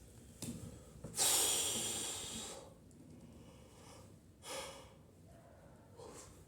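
A person's breathing close to the microphone: a long, noisy exhale lasting over a second that fades out, then two shorter, fainter breaths.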